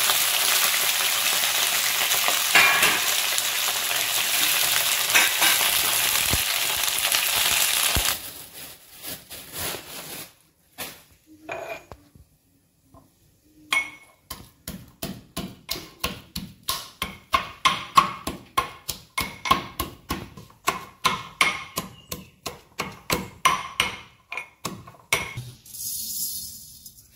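Pieces of pointed gourd sizzling steadily in hot oil in an iron kadai for about eight seconds. After a short pause, a pestle pounds in a small steel cup in a steady rhythm of about two strikes a second.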